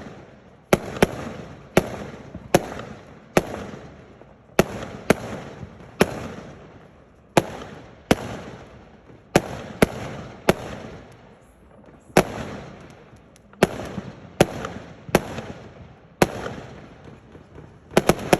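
Fireworks exploding: a string of about twenty sharp bangs, spaced half a second to two seconds apart, each dying away in a rumbling tail. Near the end a quick volley of bangs begins.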